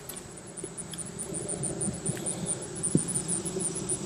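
Hands rummaging through loose potting soil in a grow bag, a soft scratchy rustle that grows busier toward the end. Behind it runs a steady, rapid, high-pitched insect chirping.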